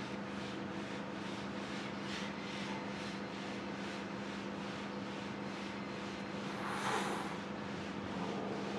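Steady low machine hum with faint regular ticking, and a brief swell of hiss about seven seconds in.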